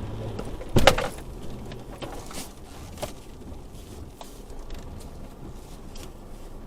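Inside a pickup truck's cabin: one loud thump about a second in, then scattered light clicks and rattles over a low vehicle rumble.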